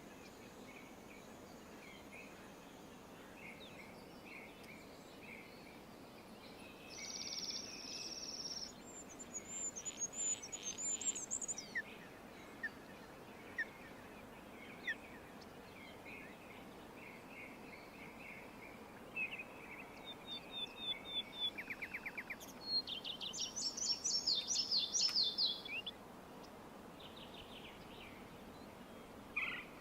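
Several songbirds singing, with different phrases including buzzy trills and quick chirps, the busiest stretches about a third of the way in and again near the end, over a steady faint hiss.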